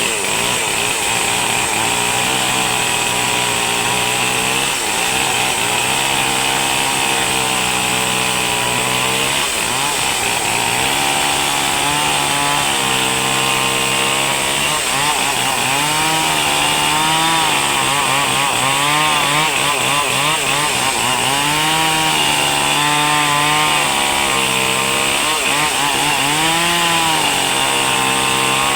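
Small engine running continuously, its pitch swinging up and down every second or two as it is revved and loaded.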